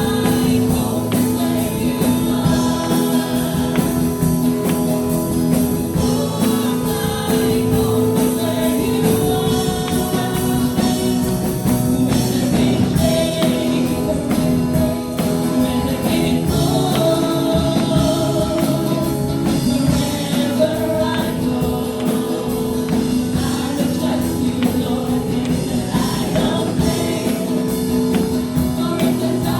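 Worship music played by a band, with voices singing together.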